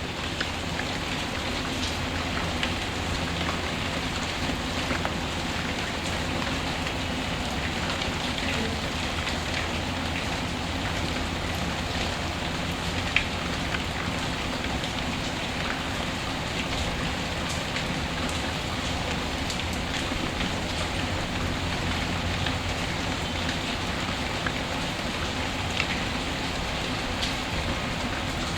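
Steady rain ambience, a constant hiss of rainfall with scattered small ticks and crackles, one a little louder about halfway through.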